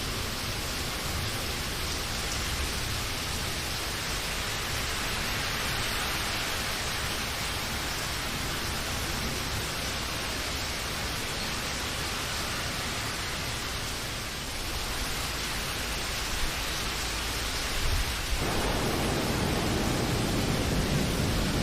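Steady rainfall, an even hiss without separate drops standing out. A few seconds before the end it grows slightly louder and fuller in the low range.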